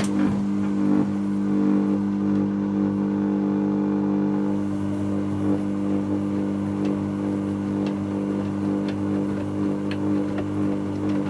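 Dyson Contrarotator CR01 washing machine running with a steady motor hum that holds one pitch. Faint ticks come about once a second in the second half.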